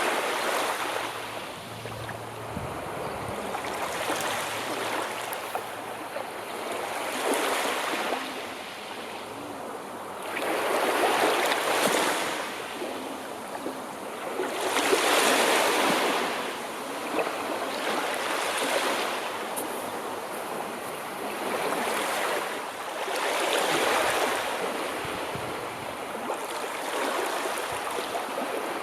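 Sea surf: waves breaking and washing in, each surge of rushing water swelling and falling away every three to four seconds.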